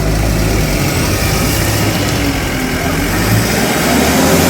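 A vehicle's engine running loudly under load, its pitch rising and falling slightly as it revs.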